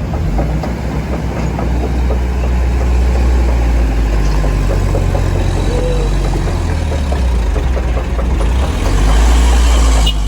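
Heavy vehicle's diesel engine running under load on a steep climb, a deep steady rumble that grows louder near the end.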